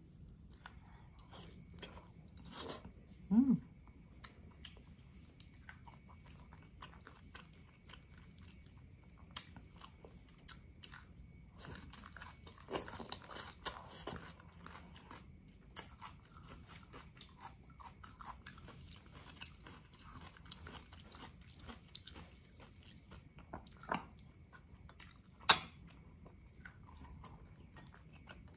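Close-up eating sounds of beef bone-marrow soup (bulalo): soft wet chewing and lip smacks, with a few sharper clicks scattered through.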